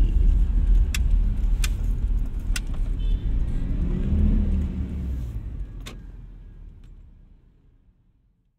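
Suzuki Escudo's G16B 1.6-litre four-cylinder engine running with a steady low rumble inside the cabin, with a few sharp clicks scattered through it. The sound fades away over the last few seconds.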